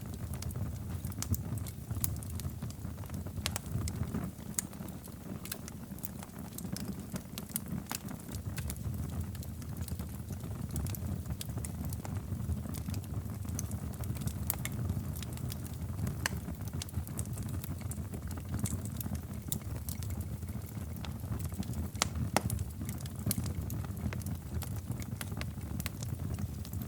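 Wood fire burning in a fireplace, a steady low rumble of flames with irregular sharp crackles and pops scattered throughout.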